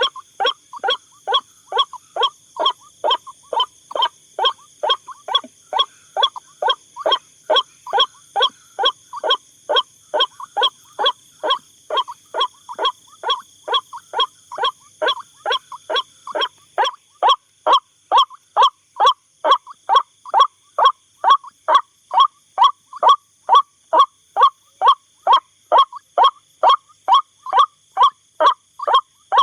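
White-breasted waterhen (ruak-ruak) calling, one short croaking note repeated evenly about two and a half times a second without a break, a little louder from about two-thirds of the way in.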